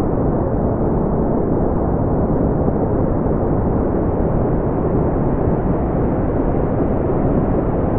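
Brown noise: a steady, deep rumbling hiss, strongest in the low range and dying away in the treble, with no change in level.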